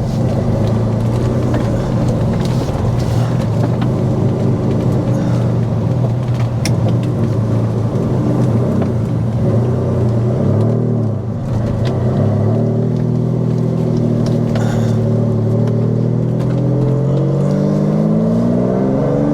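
Lamborghini Diablo's straight-piped 5.7-litre V12 under way, heard from inside the cabin. Its note holds steady for about ten seconds, dips briefly near the middle, then climbs steadily in pitch over the last several seconds as the car accelerates.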